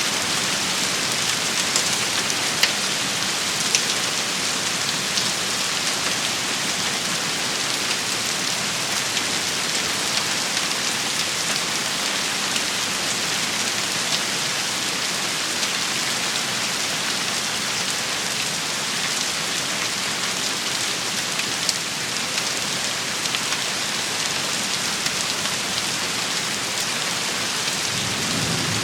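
Steady rain shower, an even hiss of falling rain with scattered sharper drop hits. A low rumble of thunder starts near the end.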